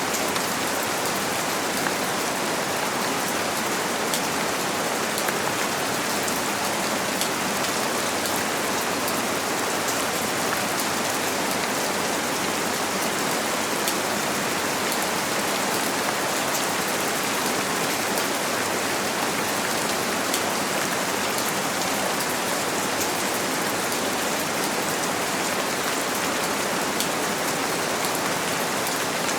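Steady rain on a window pane: an unbroken hiss flecked with small drop ticks.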